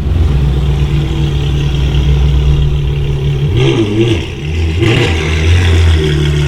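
A car engine idles steadily, then is revved in a few quick throttle blips from about three and a half seconds in, each rising and falling in pitch, before it settles back.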